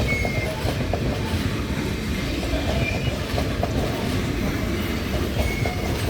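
Train rolling slowly through the station tracks: a steady low rumble with wheel clatter, and three short, high wheel squeals on the rails.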